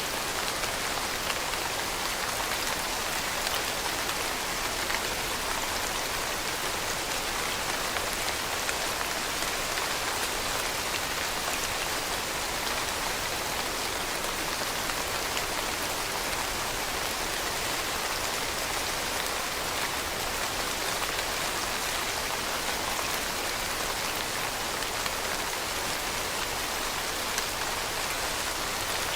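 Steady rain, with many fine drops pattering on a surface in an even, unbroken hiss.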